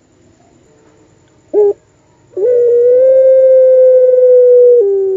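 Puter pelung dove calling: a brief coo about one and a half seconds in, then a long, steady drawn-out call from about two and a half seconds in that steps down and falls in pitch near the end.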